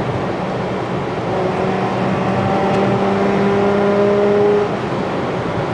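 Car engine and road noise at highway speed, heard from inside the car: a steady engine hum that grows a little louder as the car pulls harder, then eases back about four and a half seconds in.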